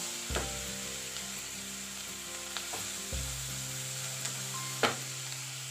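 Soaked chana dal and onions sizzling in hot oil in a kadhai while being stirred and roasted with a spatula, a steady hiss with a few sharp knocks of the spatula against the pan, the loudest near the end.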